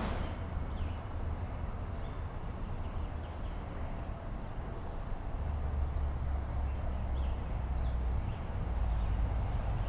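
Outdoor ambience dominated by a steady low rumble of distant road traffic, with a few faint short bird chirps now and then.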